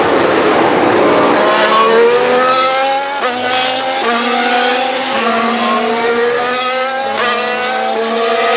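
A 2025 Formula 1 car's turbocharged V6 hybrid power unit accelerating hard. The engine note climbs in pitch and drops sharply at each quick upshift, about every two seconds.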